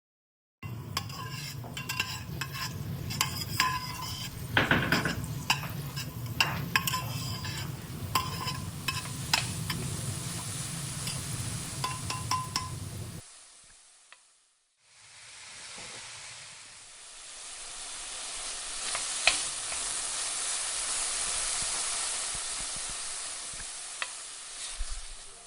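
Cooking sounds: a utensil stirring and clinking against a pot or pan for about thirteen seconds. After a short break, food sizzles steadily in a hot pan, the hiss swelling and easing with a few sharp pops.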